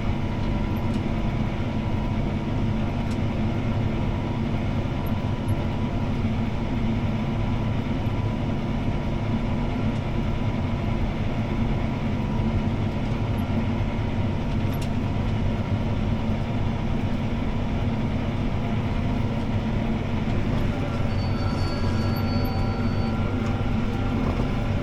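CLAAS ARION 650 tractor's six-cylinder diesel running steadily under load pulling a disc harrow, heard from inside the cab as a continuous low drone. A thin high tone sounds for about two seconds near the end.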